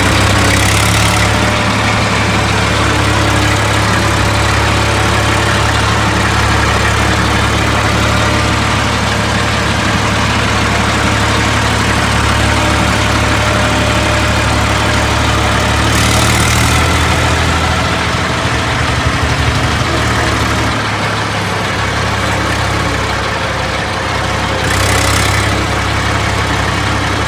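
Tractor engine running steadily and loudly, with a brief hiss three times: near the start, about 16 seconds in and about 25 seconds in.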